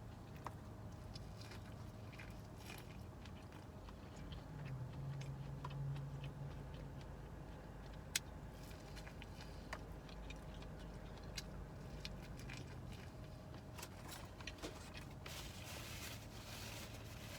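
A person chewing and biting food close to the microphone, with small wet clicks and smacks, over a low steady hum.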